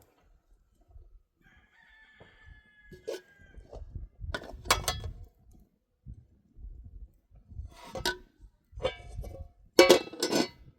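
Rooster crowing, with the loudest crow near the end and a strong one about four and a half seconds in, over a low rumble.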